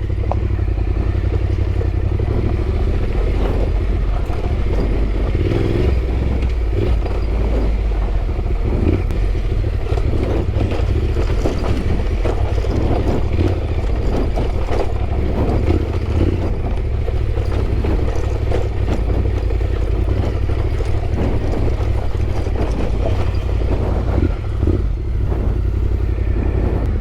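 Yamaha Ténéré 700 motorcycle riding at a steady pace, heard onboard: engine running under heavy wind rush on the microphone, with frequent small knocks and rattles from a bumpy road.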